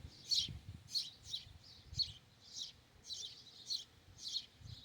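A small songbird chirping over and over, short high chirps at about two a second.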